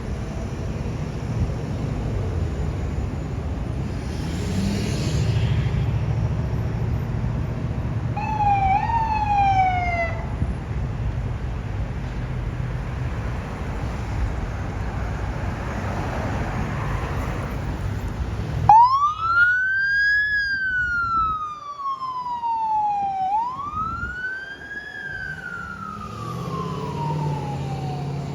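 Fire-rescue vehicle's electronic siren: a brief short siren sweep about a third of the way in, over a steady low engine rumble, then about two-thirds through the siren starts wailing loudly, each cycle rising quickly and falling slowly, as the rescue unit moves off with its lights and siren.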